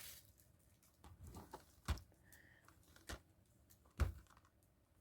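A plastic movie disc case being handled: faint rustling, then a few sharp plastic clicks and taps, the loudest about four seconds in.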